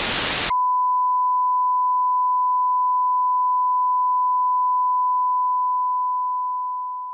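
A half-second burst of static hiss, then a steady pure electronic test tone at about 1 kHz, held for several seconds and fading out near the end.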